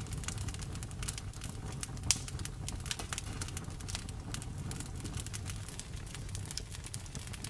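Wood fire crackling, with irregular sharp pops and snaps over a low steady rumble; one louder snap about two seconds in.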